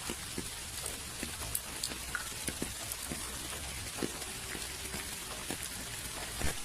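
Steady rain falling, an even hiss with scattered irregular drops tapping close by.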